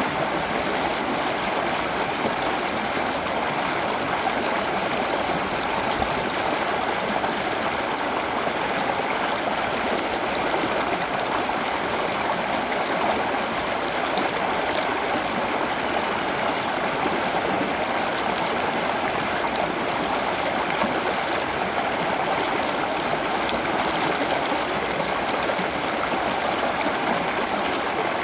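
Steady rush of running water, like a stream, unbroken throughout.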